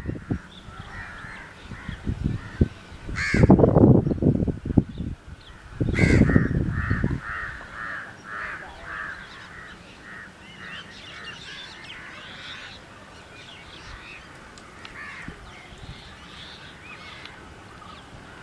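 Crows cawing repeatedly, with a quick run of caws about two a second from around six seconds in. Two loud low rumbles break in, about three and six seconds in.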